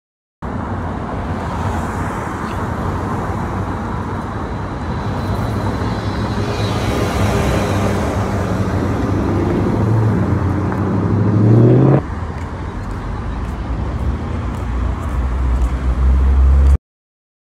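Car engine accelerating: its pitch climbs for several seconds, drops suddenly about twelve seconds in, as at a gear change, and climbs again near the end.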